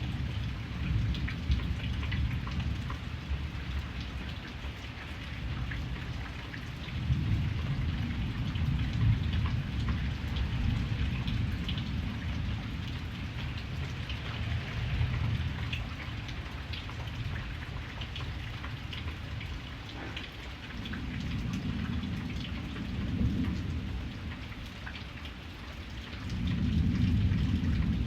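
Steady rain falling, with scattered drops ticking, over low rolling thunder that swells and fades in several long waves, growing loudest near the end.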